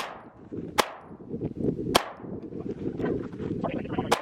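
Four 9mm pistol shots, spaced irregularly, at the start, about a second in, about two seconds in and near the end, each echoing away. None sets off the Tannerite target: no explosion follows.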